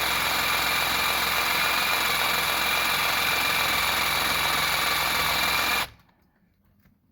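Cordless power hacksaw running steadily as it cuts into the spinning outer shell of a RAM truck locking lug nut, stopping suddenly about six seconds in.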